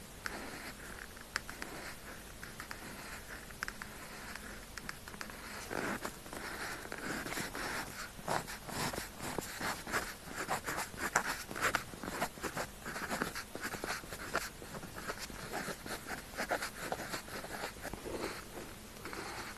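Pen tip scratching across paper in quick, continuous writing strokes with small ticks, close up. The strokes get busier and louder about six seconds in.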